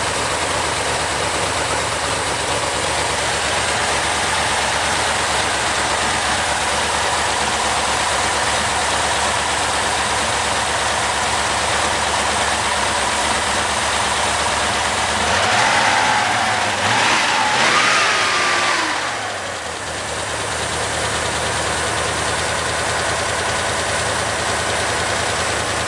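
Tatra 603's air-cooled V8 running steadily after sitting unused for 20 years. About two-thirds through it is revved twice, the pitch rising and falling each time, then it settles back to an even idle.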